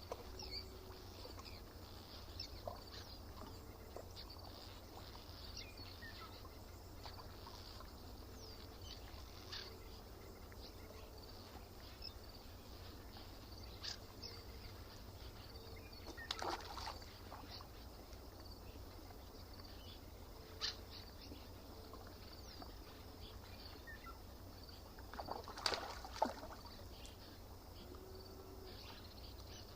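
Quiet lakeside ambience: scattered short bird chirps over a steady low background noise, with a few louder short sharp sounds about halfway through and a cluster of them near the end.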